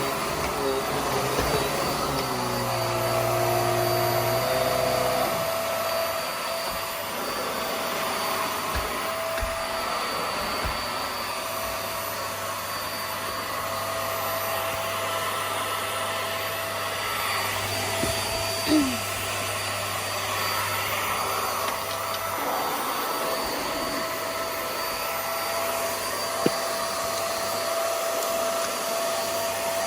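Vax Airmax Stretch upright vacuum cleaner running steadily, a continuous rush of air with a motor whine. Its lower tone shifts in the first few seconds as it is worked over the floor.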